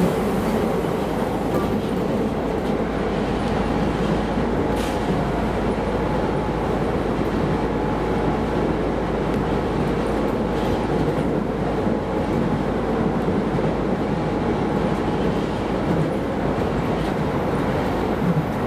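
Keisei Line electric train, heard from on board: a steady rumble of wheels and running gear, with a faint steady whine over it.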